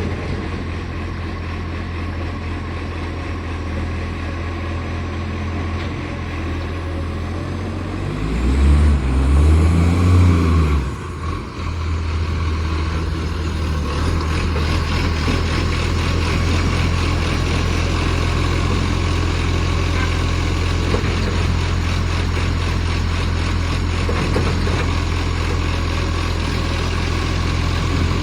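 Garbage truck's diesel engine running with a leaking exhaust. About eight seconds in it revs up in pitch and loudness for a few seconds, then drops back to a steady run.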